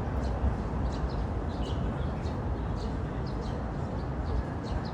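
A small bird chirping: short, high calls repeated irregularly, several a second at times, over a steady low background rumble.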